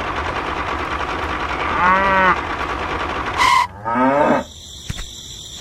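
Mooing calls, a short one about two seconds in and a longer rising one past the middle, over a steady whirring noise that stops about three and a half seconds in.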